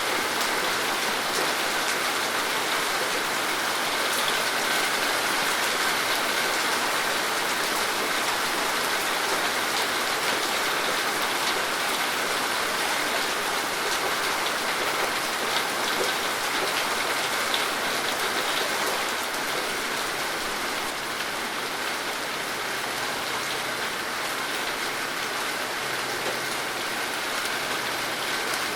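Steady rain falling, a dense even patter of drops on a surface, easing slightly in the second half.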